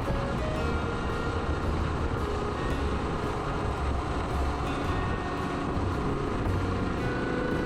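Suzuki DR125S single-cylinder motorcycle cruising at steady speed, its engine running under a constant rush of riding wind on the microphone.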